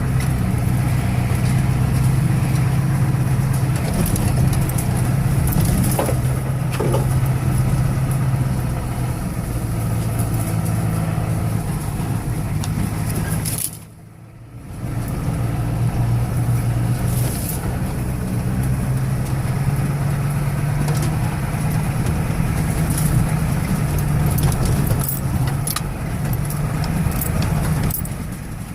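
1985 Ford 6.9-litre IDI diesel V8 running steadily as the truck is driven. The sound drops out sharply for about a second near the middle, then resumes.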